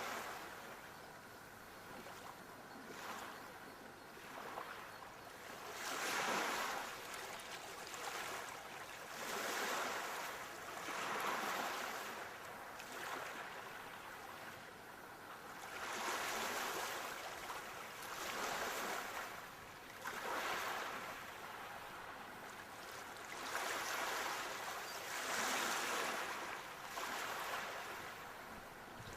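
Sea waves breaking and washing in, a surging wash that swells and fades every few seconds.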